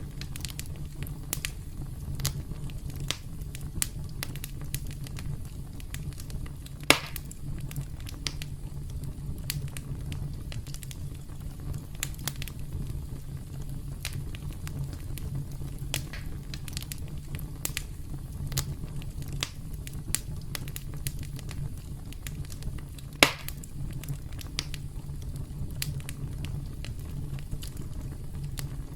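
Campfire crackling: a steady low rumble of burning with scattered snaps, and two loud pops, one about a quarter of the way in and one about three quarters through.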